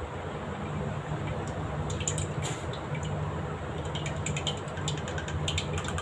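Oil heating in a kadai on a lit gas stove: a steady low burner hum with scattered small clicks and crackles from about a second and a half in.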